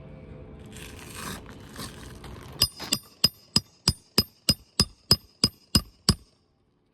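A roofing hammer driving a nail into a shingle at the nailing strip: about a dozen sharp, evenly spaced metallic strikes, roughly three a second, each with a short ring. The strikes begin about two and a half seconds in, after some faint rustling, and stop abruptly about a second before the end.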